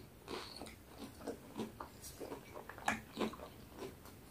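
Biting and chewing a crispy fried-chicken burger: faint, irregular crunches and mouth sounds, a little louder about three seconds in.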